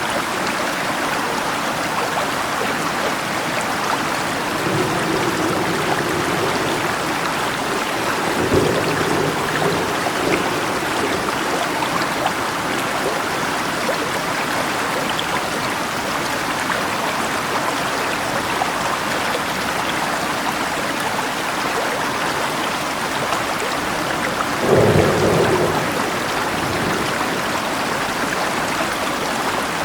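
Steady rain over rushing river water, with thunder rumbling three times. The loudest, deepest roll comes late on.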